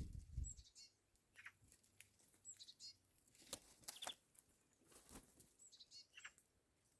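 Faint short, high bird chirps in several small groups, with scattered light taps and clicks in between.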